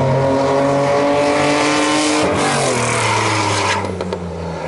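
Cars accelerating hard down a straight at full throttle, the engines revving high, dropping in pitch at an upshift about two seconds in, then fading as they pull away near the end.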